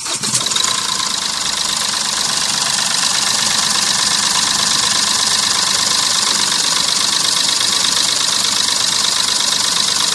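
Toy vehicle running with a steady high-pitched whir that sets in abruptly at the start and holds an even level.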